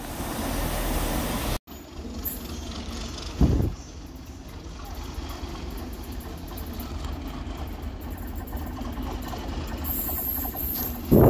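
A train's engine runs with a steady low rumble, with one short loud blip about three and a half seconds in. A loud train horn blast starts at the very end.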